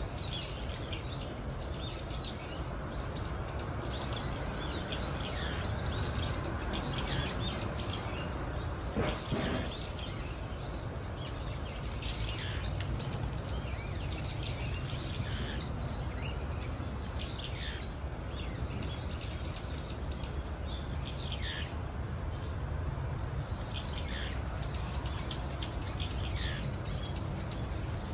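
Wild songbirds chirping and calling over and over, many short high notes that sweep downward, over a steady low rumble. A brief louder sound stands out about nine seconds in.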